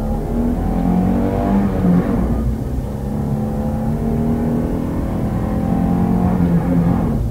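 Car engine running and accelerating, its pitch rising and falling a few times over a steady low rumble.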